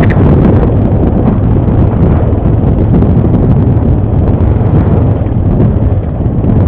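ATV engine running during a ride, mixed with heavy wind buffeting on the helmet-camera microphone; a loud, steady low rumble.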